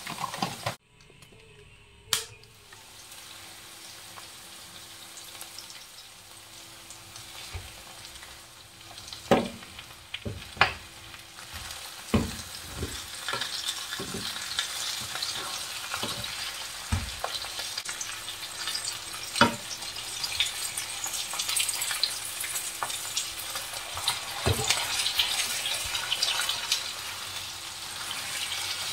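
Onions and qeema kachoris frying in oil in a nonstick pan, a sizzle that builds and is loudest over the second half. A spatula knocks and scrapes against the pan now and then.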